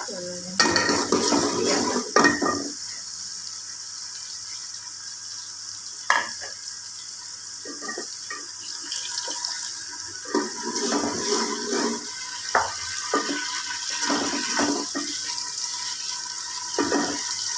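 Onions and garlic-ginger paste sizzling in hot oil and ghee in an aluminium pot, with a steady hiss. A steel ladle stirs and scrapes the pot in irregular bursts; the loudest of them come in the first few seconds.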